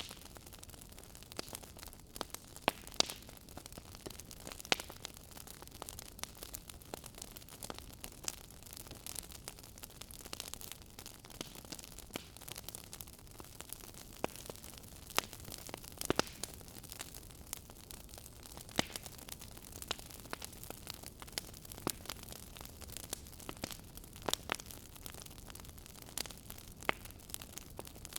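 Wood fire in a fireplace crackling: frequent irregular sharp pops and snaps over a steady hiss.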